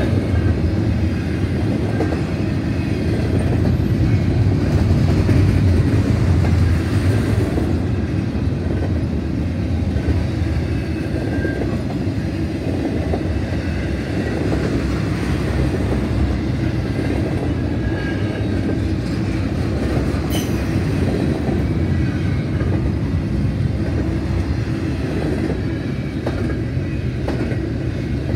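Double-stack container well cars of a freight train rolling past close by: a steady, loud rumble and rattle of steel wheels on the rails.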